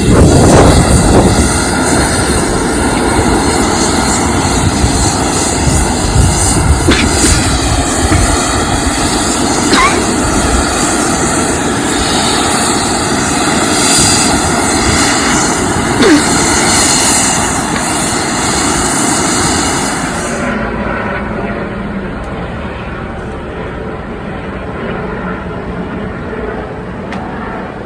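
Four-turboprop EC-130J Commando Solo III (a Lockheed C-130J-based aircraft) running loud and steady, with a dense engine-and-propeller drone. About two-thirds of the way through the sound drops in level and loses its higher pitches.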